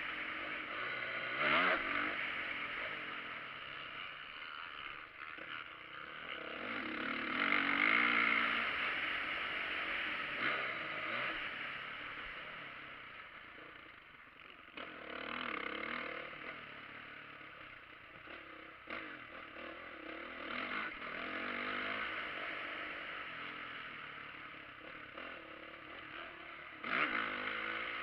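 Motocross bikes riding around a track, engines revving up and down and swelling louder several times as the bikes come near and fade away.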